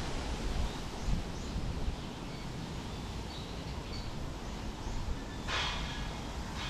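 Forest ambience: scattered faint bird chirps over a low rumble of wind, with a brief rustle about five and a half seconds in.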